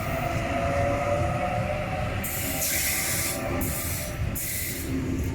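Sydney Trains electric suburban train moving at the platform: a steady low rumble of wheels on rail, a faint whine in the first half, and broken stretches of hissing noise from about two seconds in.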